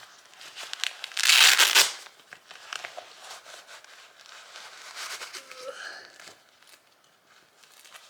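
Motorcycle gloves being handled and pulled on: rustling and crinkling, with one loud rasping rip about a second in.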